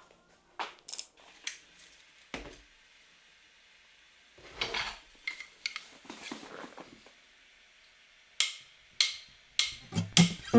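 Scattered metallic clinks, taps and knocks of hand tools and parts being handled while stripping down a car's front end, with short bursts of rustling and clatter between quiet gaps.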